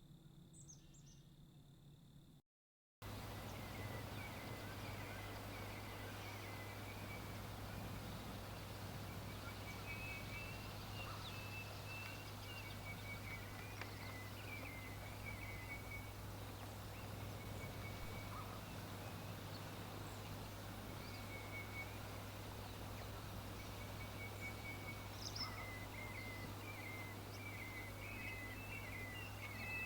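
Outdoor nature ambience: small birds chirping and trilling in short high phrases over a steady hiss and a constant low hum, the chirping busiest near the end. The sound drops out completely for about half a second early on, where one recording is cut to the next.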